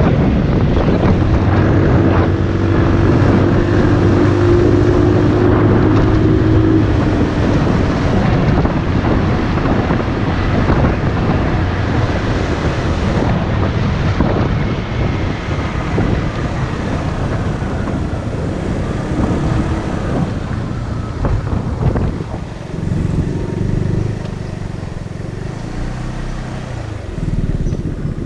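Motorcycle riding along, its engine running under a steady rush of wind buffeting the microphone. The engine note holds steady for several seconds about a second in and shifts lower later on.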